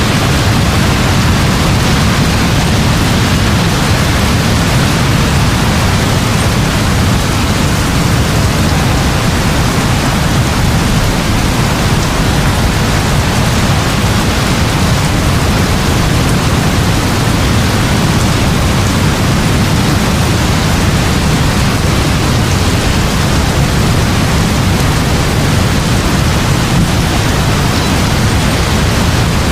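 Heavy rain falling steadily, an even hiss with a constant low rumble underneath and no separate thunderclaps.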